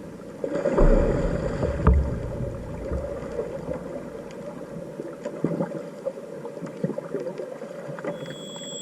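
Water sloshing and bubbling close to the microphone, swelling about a second in, with a few faint clicks.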